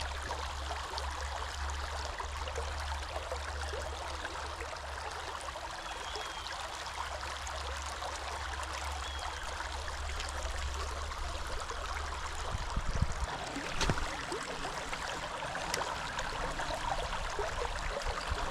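River water running over small rock falls: a steady rushing and trickling, with a couple of brief knocks about two-thirds of the way through.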